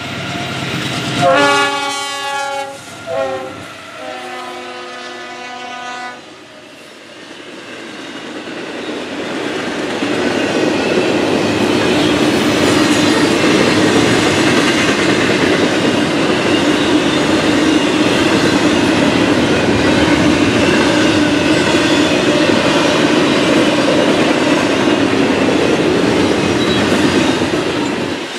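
Freight locomotive horn sounding at a grade crossing: a long blast, a short one and another long one in the first six seconds. The train then passes and double-stack container cars roll by with a steady loud rumble and clatter of wheels on the rails.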